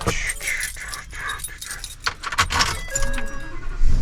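Keys jangling and clinking in quick, irregular clicks, with a short electronic tone about three seconds in.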